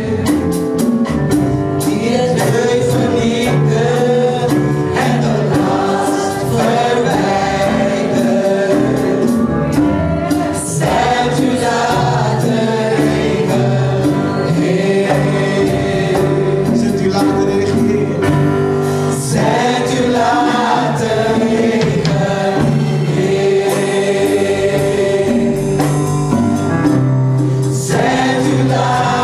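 Gospel praise team singing a worship song in chorus, with instrumental backing and a steady bass line.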